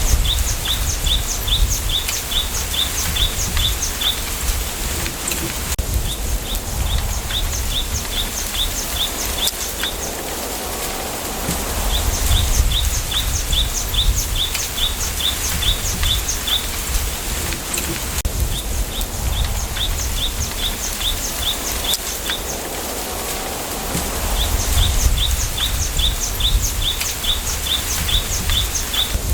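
A small bird repeats a rapid trill of short high chirps, each run lasting two to three seconds and coming back about every six seconds. Under it is a steady hiss of wind through bamboo leaves, with a low rumble.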